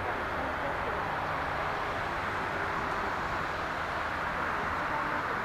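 Steady jet airliner engine noise at an airport, an even roar without sudden changes.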